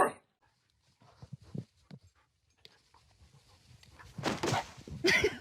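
A dog barks once right at the start, then quieter dog sounds and scuffling, growing louder from about four seconds in.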